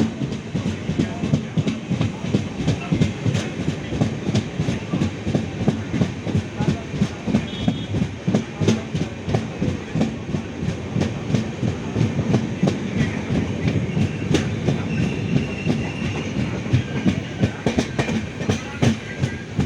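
Passenger train running at speed, heard from aboard: steady rumble of the coaches with continuous rapid clacking of wheels over rail joints.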